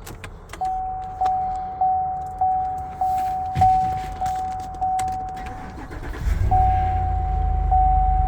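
A vehicle's cabin warning chime repeating steadily, about one chime every 0.6 s. About six seconds in, the chime breaks off briefly and the 6.2-litre V8 starts and settles into a low idle under the resumed chime.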